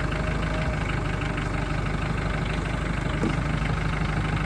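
Engine idling steadily just after a cold start in 18-degree weather, running on its own after several cranking attempts.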